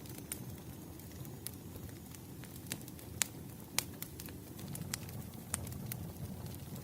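Wood fire crackling, with irregular sharp pops and snaps, the two loudest a little past halfway, over a steady low rumble of room noise.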